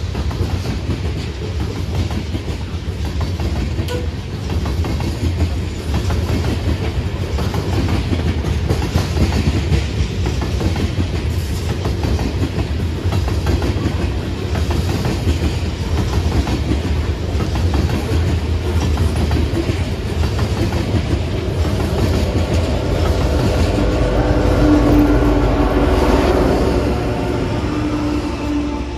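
Freight train of coal hopper cars rolling past, steel wheels clattering rhythmically over the rail joints with a steady low rumble. Near the end a rear-end BNSF diesel locomotive comes by, its engine drone rising to the loudest point before the sound begins to fade.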